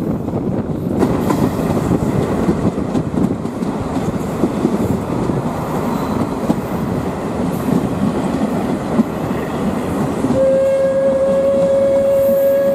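Passenger train hauled by a WP-class steam locomotive, heard from a carriage window: wheels rumbling and clattering along the rails. About ten seconds in, the locomotive's whistle starts one long steady note that is still sounding at the end.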